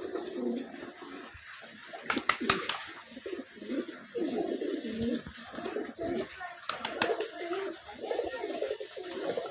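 A pet bird giving low calls in repeated phrases, with a few sharp clicks or taps about two seconds in and again near seven seconds.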